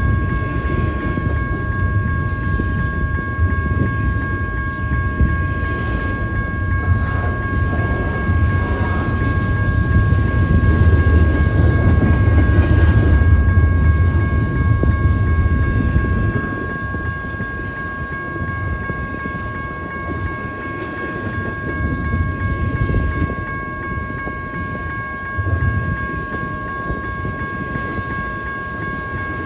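A train rolling past, a heavy low rumble that eases about halfway through, with a steady high-pitched tone held throughout.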